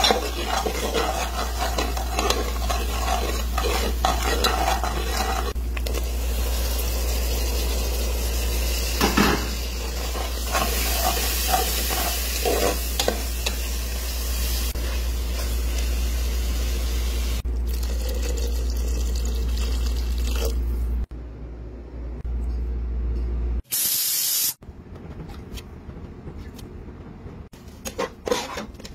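Onions, tomatoes and spices sizzling in hot oil in a metal pot while a steel spoon stirs and scrapes through them. About three quarters of the way through, the sizzle drops away to quieter stirring, broken by a brief loud hiss.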